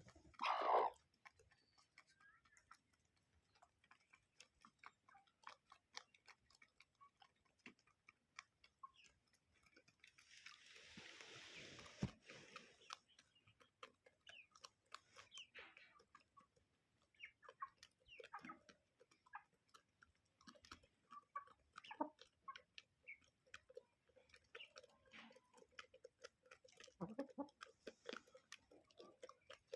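Chickens pecking and scratching at feed: a faint scatter of small irregular clicks and taps, with one short falling call about a second in.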